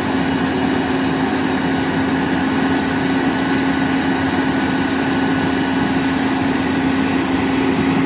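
A vehicle engine running steadily: an even hum with a constant drone that does not change in pitch or level.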